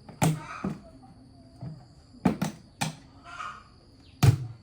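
A series of about five sharp knocks at irregular intervals, the last the loudest.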